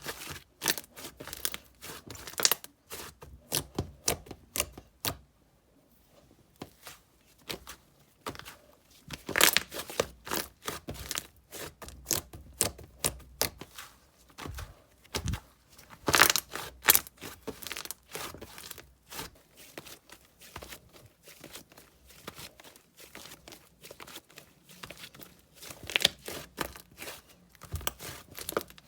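Slime being squished, stretched and poked by hand, giving a run of irregular sharp clicks, pops and crackles, with a brief pause about six seconds in.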